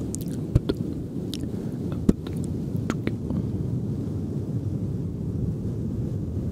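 Close-miked ASMR mouth sounds: a handful of sharp wet mouth clicks in the first three seconds, over a steady low rumbling noise that carries on after the clicks stop.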